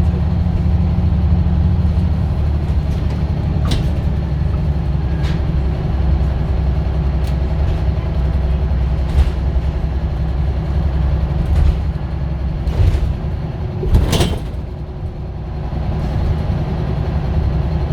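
Scania bus's diesel engine running with a steady low drone, with scattered clicks and knocks over it, the loudest about 14 seconds in.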